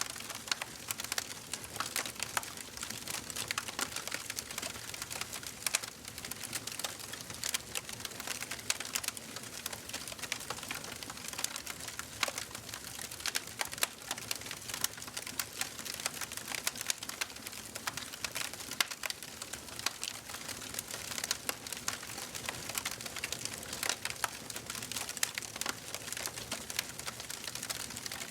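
Wood fire burning in a fireplace: dense, constant crackling with many small sharp pops over a steady hiss.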